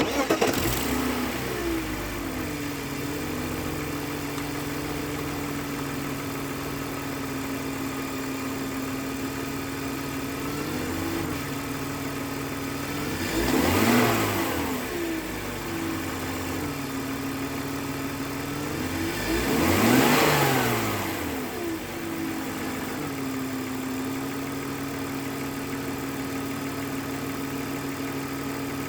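2001 BMW 325Ci's 2.5-litre M54B25 inline-six starting, flaring briefly, then settling to a steady idle, blipped up twice briefly about 14 and 20 seconds in before dropping back to idle. The owner finds it runs a bit noisy and does not know the cause.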